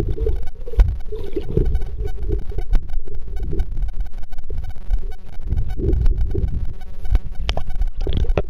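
Electronic buzzing picked up in the Kodak Zx5 camera's own audio: a fast, even buzz of fine ticks that runs without a break. It sits over low, uneven underwater rumbling and gurgling. The buzz is the camera fault that the recording was made to document.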